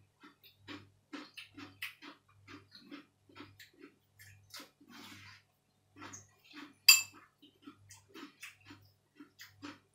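Close-up chewing and crunching of raw vegetables and noodles, in a steady rhythm of about one and a half chews a second with small crackles. About seven seconds in, a spoon clinks sharply against the bowl, the loudest sound.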